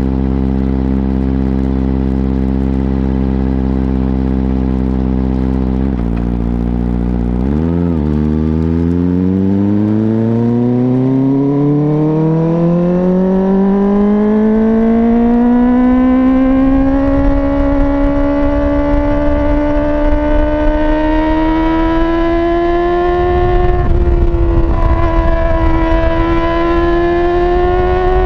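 Kawasaki ZX-25RR's 250 cc inline-four engine through a slip-on exhaust with the dB killer removed. It idles steadily, is blipped once about eight seconds in, then revs climb smoothly for about eight seconds to a high-pitched wail that is held, with a brief dip near the end.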